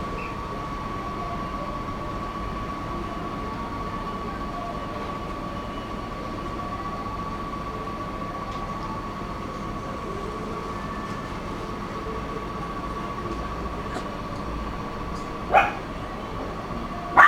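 A steady background hum with a constant high whine, then a puppy barks twice near the end: two short, sharp barks about a second and a half apart.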